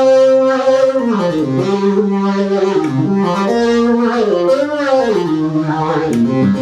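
Minimoog monophonic analog synthesizer playing a slow melody, one held note at a time, each note sliding into the next with portamento.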